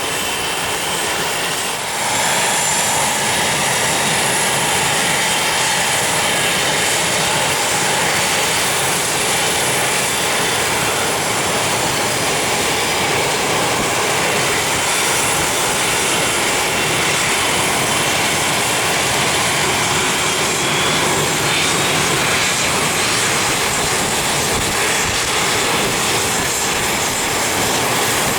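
Business jet engines running with a steady roar and a faint high whine, growing louder about two seconds in and then holding steady.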